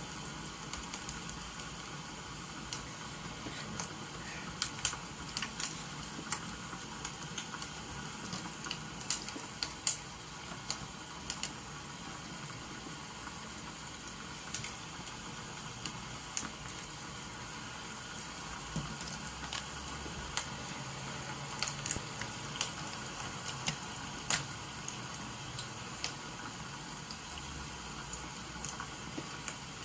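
Wood fire crackling, with sharp irregular pops, over a steady hiss of rain.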